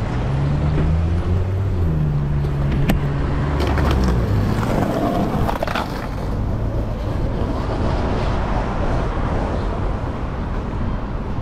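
Street traffic heard from a moving bicycle: a motor vehicle's engine hums low for the first few seconds over steady road noise.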